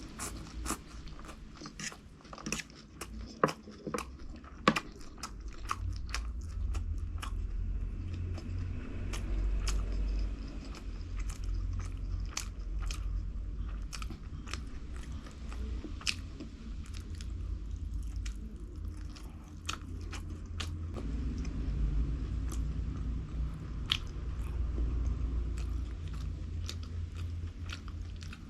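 A person chewing and biting crunchy food close to the microphone, with many sharp crackling crunches that are densest in the first five seconds, over a steady low rumble.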